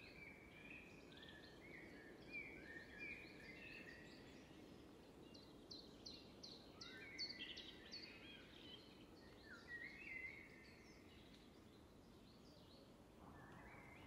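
Faint wild birdsong: scattered chirps and short whistled phrases, with a quick run of about six high, falling notes around six seconds in.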